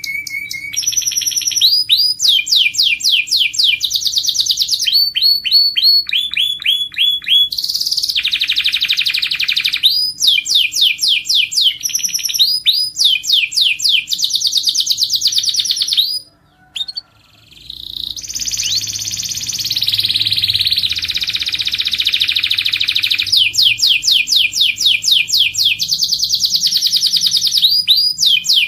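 Domestic canary singing in fast trills of rapidly repeated notes, each run switching to a new note. The song breaks off briefly about sixteen seconds in, then resumes.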